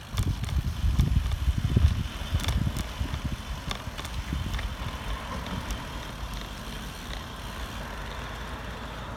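Wind buffeting the microphone of a camera riding on a bicycle, with scattered light clicks and rattles. The gusts are strongest in the first few seconds and ease after about four seconds.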